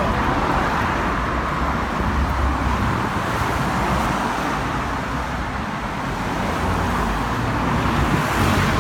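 Steady road traffic, cars passing close by with a continuous rush of tyres and engines that swells and eases.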